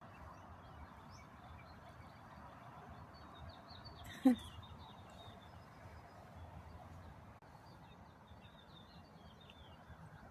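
Small birds chirping, many short high chirps scattered throughout over a steady low outdoor background. About four seconds in, one brief loud call drops quickly in pitch.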